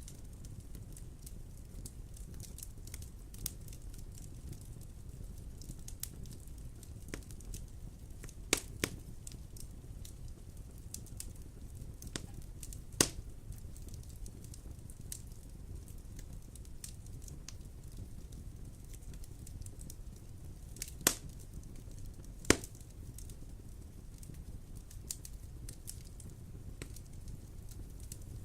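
Wood fire crackling in a fireplace, with scattered sharp pops over a steady low rumble; four louder pops stand out, two of them close together near the end.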